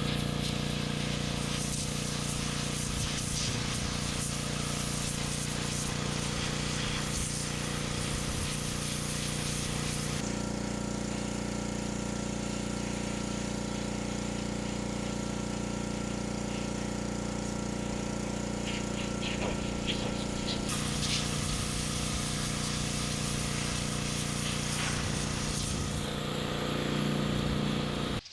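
Pressure washer running steadily while it sprays caked-on grease off a WD-40-soaked magnesium transmission case, the motor's drone under the hiss of the spray. From about ten seconds to about twenty-one seconds in, the spray hiss drops back while the motor keeps running, then it returns.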